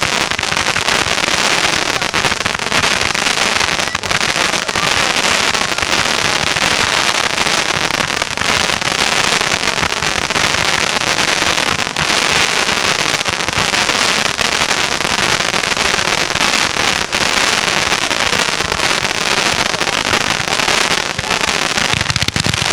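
Consumer fireworks going off in a dense, continuous barrage of rapid crackles and bangs.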